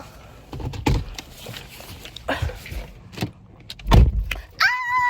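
Knocks and thuds of someone handling things in a car, the loudest a heavy low thud about four seconds in, like a car door shutting. A short, high electronic beep follows near the end.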